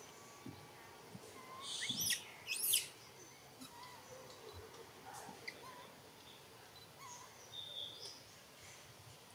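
Forest ambience with scattered short bird chirps, and a brief burst of shrill, high-pitched sweeping calls about two seconds in, the loudest thing heard.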